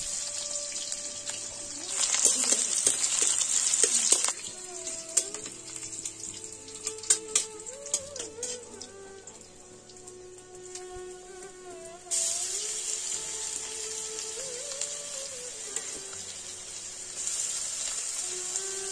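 Egg frying in hot oil in a large wok, a steady sizzle that swells about two seconds in, fades out after about four seconds and comes back abruptly about twelve seconds in. Light clicks of a spatula against the pan while the sizzle is low, over soft background music.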